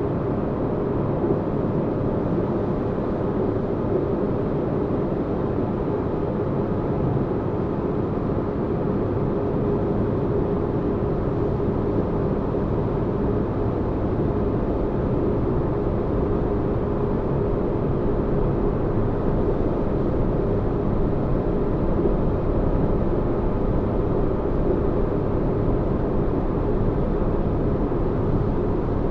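Steady low spaceship-interior ambience: a deep, even engine-like rumble with a faint constant hum on top, unchanging throughout.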